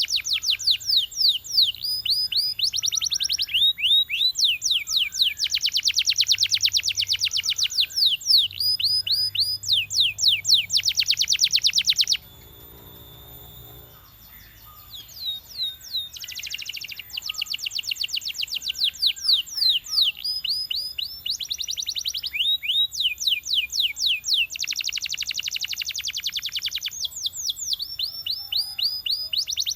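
Belgian canary singing a long song of rapid trills, each a fast run of repeated high notes, shifting from one trill to the next. The song cuts off suddenly about twelve seconds in and picks up again a few seconds later.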